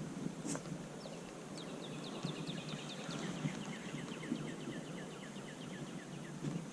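A bird calling a long run of quick down-slurred chirps, about five a second, the run slowly dropping in pitch.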